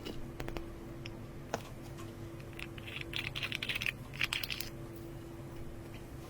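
Slime being squeezed and pressed by hand, giving scattered small clicks and crackling pops, with two denser runs of crackling in the middle.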